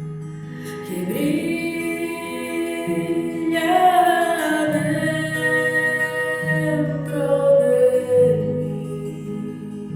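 A song: a voice sings long held notes that glide down, with a choir-like layered sound, over steady low sustained accompaniment.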